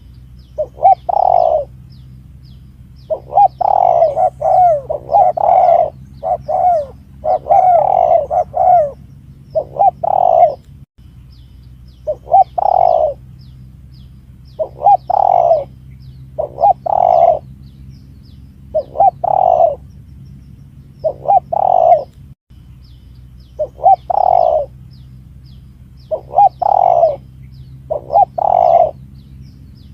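Spotted dove cooing: short, rhythmic coo phrases repeated about every two seconds, some coming in quick pairs. A steady low hum runs underneath.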